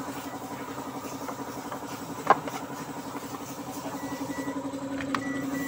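Ford Everest engine idling steadily with an even pulse, heard from inside the cabin after its cylinder head has been reinstalled. A sharp click comes a little over two seconds in, and short high beeps sound near the end.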